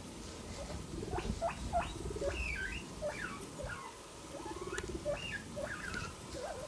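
A small rodent making a run of short rising squeaks, with a low pulsing buzz under them twice.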